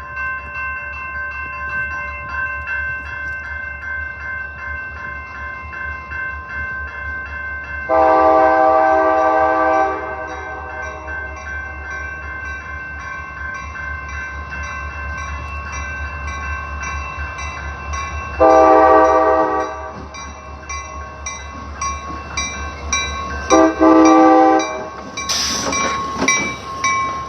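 Locomotive horn sounding the long, long, short, long grade-crossing signal in three chord-like blasts, the last a short note run into a long one. Under it are a steady low engine rumble and an evenly repeating ringing, and near the end the louder noise of the train passing.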